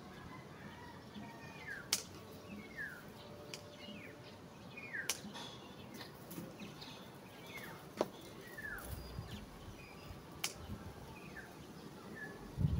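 Birds calling with short chirps that fall in pitch, repeated every second or two, over a faint outdoor background. Four sharp clicks break in at intervals.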